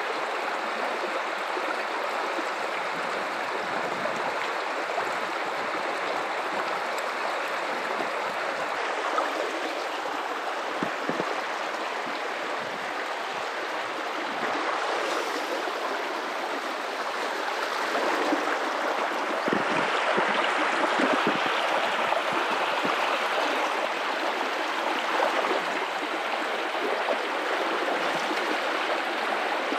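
River water running over rocks in a steady rushing flow, swelling slightly louder for a few seconds past the middle.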